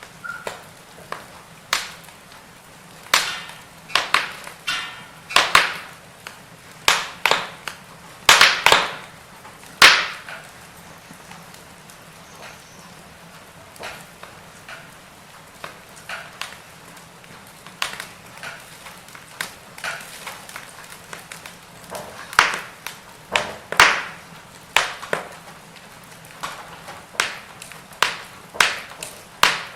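Firewood burning, crackling with irregular sharp pops, in clusters of quick snaps with a sparser stretch around the middle.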